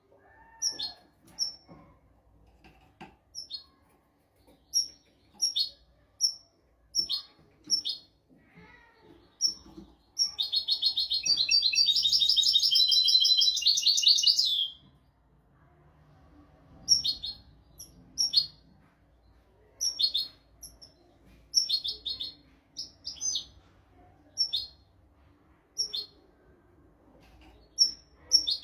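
European goldfinch singing: short sharp high notes spaced about a second apart, then about ten seconds in a dense, rapid twittering trill lasting some four seconds, followed by more spaced notes and short phrases.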